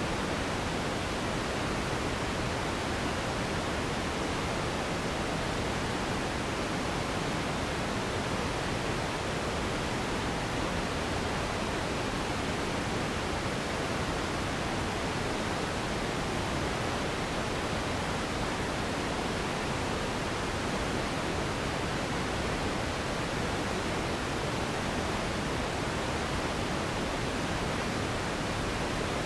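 Steady synthetic pink noise: an even hiss that does not change.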